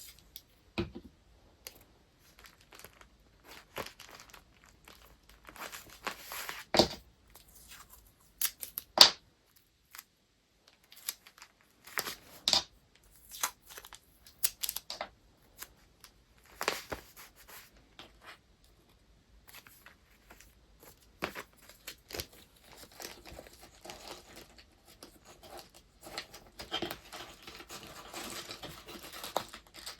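Paper and wrapping materials being handled in close-up: irregular crinkling, rustling and tearing, with a few sharper taps and crackles, and steadier rustling near the end.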